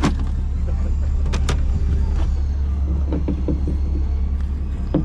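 Party fishing boat's engine running with a steady low drone, with a few sharp clicks about a second and a half in.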